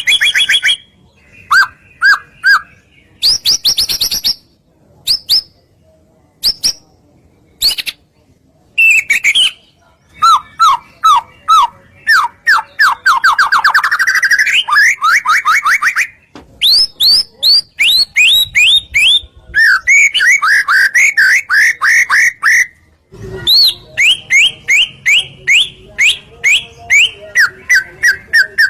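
White-rumped shama (murai batu) singing loudly in varied phrases: fast runs of short repeated notes, rapid trills and sharp chirps, broken by brief pauses. This is the shama's full 'gacor' song, used by keepers as a lure to provoke other shamas into answering.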